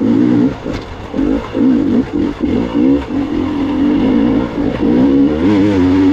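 Gas Gas EX 300 two-stroke dirt bike engine, revved in short bursts, its pitch rising and falling again and again as the throttle is worked on and off.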